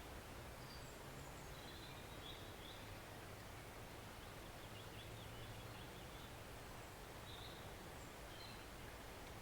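Faint, steady rush of a small forest stream, with a few brief, faint high bird chirps scattered through it.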